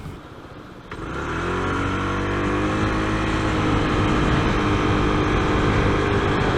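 Honda PCX 125 scooter's single-cylinder engine pulling away under full throttle from a standstill. About a second in the engine note jumps up and its pitch climbs, then holds nearly steady as the scooter gathers speed.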